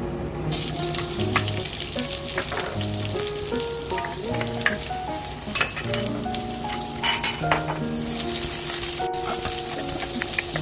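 Sliced onion and minced garlic sizzling as they fry in hot oil in a nonstick pan, the sizzle starting about half a second in as they hit the oil, with scattered clicks of a spoon stirring them. Background music plays throughout.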